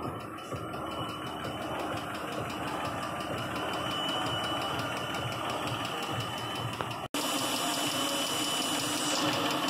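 2014 Jeep Grand Cherokee V6 engine idling with a fast, regular valvetrain ticking. The cause is a rocker arm whose internal roller bearings have broken up and are hammering the worn intake camshaft lobe. The sound cuts out for an instant about seven seconds in.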